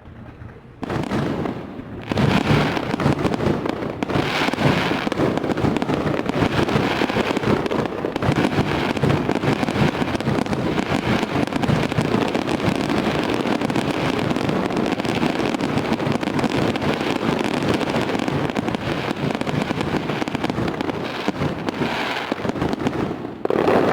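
Fireworks going off in a dense, continuous barrage of bangs and crackling. It starts abruptly out of silence about a second in and builds, with a final loud burst near the end.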